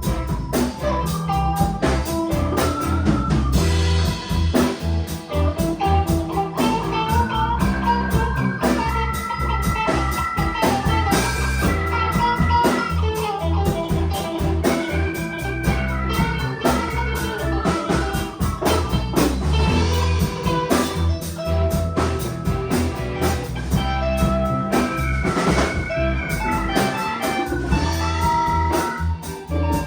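A band playing an instrumental passage: a drum kit and bass under a melodic guitar line.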